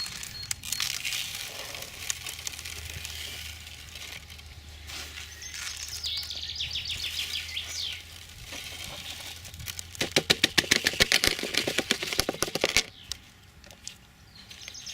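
Granular bonsai substrate being poured and scooped into a pot: a dense crackling rattle of grains, loudest for about three seconds near the end, with softer scattered crackles before it. Birds chirp briefly in the background.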